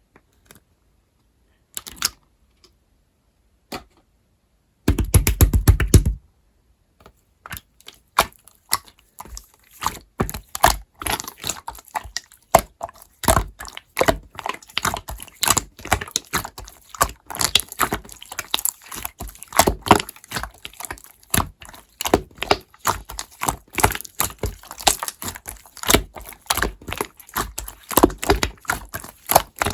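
Slime being squeezed and poked by hand, giving dense, irregular clicking and popping that starts about a quarter of the way in and keeps going. Before it come a few scattered clicks and one loud dull knock lasting about a second.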